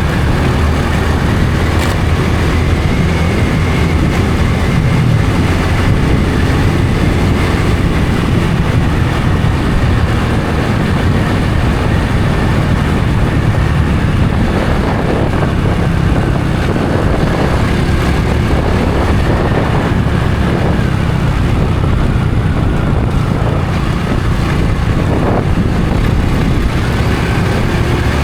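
Honda Supra X 125 FI motorcycle's single-cylinder four-stroke engine running steadily while riding.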